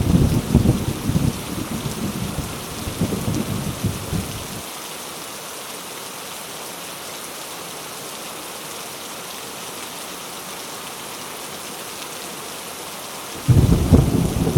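Heavy rain falling steadily in a thunderstorm. A low rolling thunder rumble stops about four and a half seconds in, and a new rumble of thunder begins near the end.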